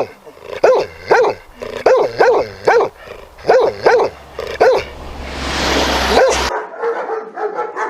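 A dog barking: sharp barks in twos and threes for the first few seconds, then a rush of noise. After an abrupt cut, quieter, quick yapping barks.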